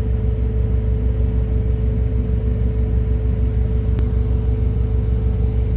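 Semi-truck's diesel engine idling: a steady low rumble with an even, rapid pulse and a constant hum tone above it. There is a faint click about four seconds in.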